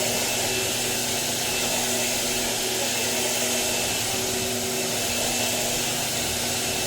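Hoover Empower vacuum cleaner running steadily: an even rushing of air with a constant motor hum and whine.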